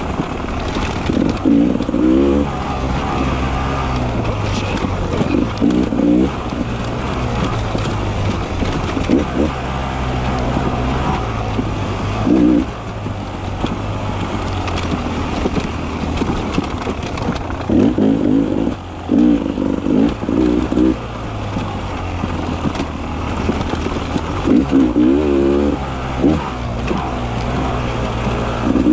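Beta 300 RR two-stroke enduro motorcycle engine on a trail ride, running steadily under part throttle and rising in short, repeated bursts of revs as the throttle is opened and closed.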